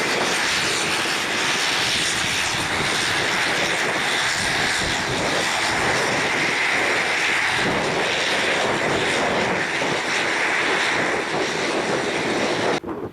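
Aircraft engines running loud and steady, then cut off abruptly near the end.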